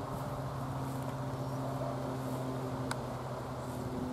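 Steady low drone of a moving train heard from inside the carriage, with one short click about three seconds in.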